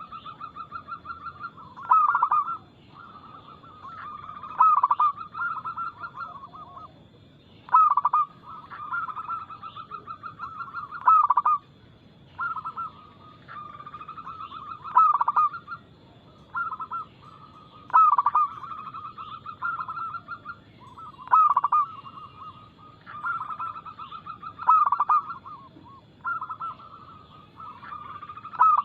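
Zebra dove (perkutut) cooing: loud phrases of several quick notes, a new phrase starting about every three seconds. A faint steady high tone runs behind.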